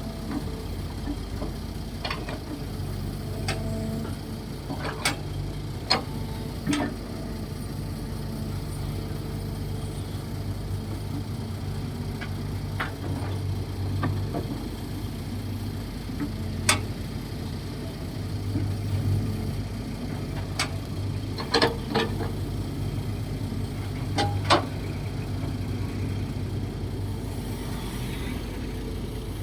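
Kobelco SK135SR excavator's diesel engine running steadily, swelling and easing as it works, with occasional sharp knocks scattered through it.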